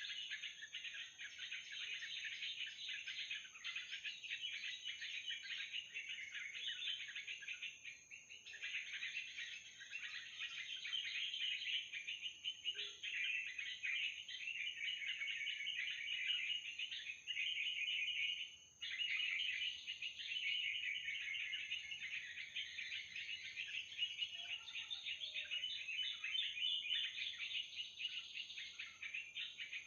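Dense, continuous chattering of bird calls, played as an mp3 lure to draw bulbuls down to a trapping net, with a steady thin high whine above it. The chatter cuts off abruptly for a moment about nineteen seconds in, then resumes.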